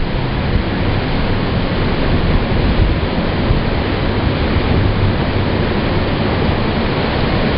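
Steady roar of hurricane-force wind blowing at around 30–40 mph, an even rushing noise with no letup.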